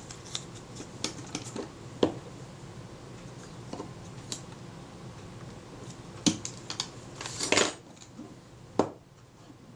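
Scattered small metallic clicks and taps as pliers work the bent strap lug on a Kodak Retina IIIc camera body, straightening a slight twist; the loudest is a quick cluster of clicks about seven and a half seconds in.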